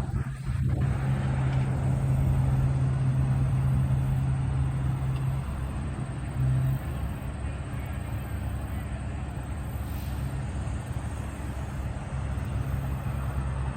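Heavy construction machinery's diesel engine running with a steady low drone, a little louder in the first five seconds or so, over a wash of outdoor noise.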